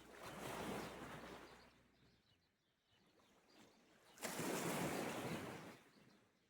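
Sea waves washing onto the shore, twice: one swell rises and fades over the first two seconds, and a second breaks in sharply about four seconds in. Birds chirp faintly behind.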